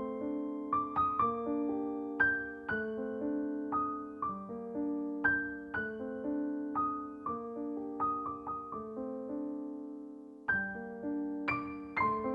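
Background piano music, a gentle melody of struck notes that ring and fade. It thins out and pauses briefly about ten seconds in, then resumes.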